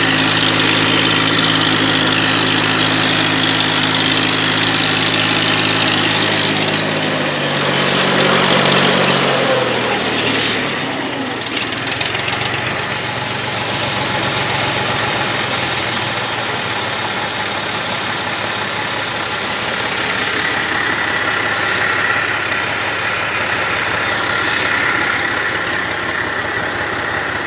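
Massey Ferguson 135 tractor engine running at a steady fast speed, then throttled down about seven seconds in, its pitch falling over a few seconds until it settles into a lower, rougher idle.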